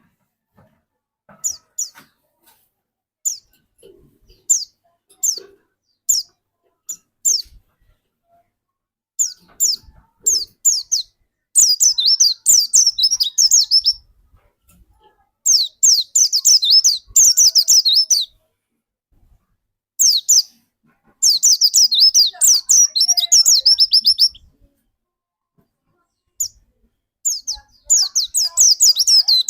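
Pleci dakun white-eye singing in full voice: scattered single high chirps at first, then long bursts of rapid, high twittering warble with short pauses between them.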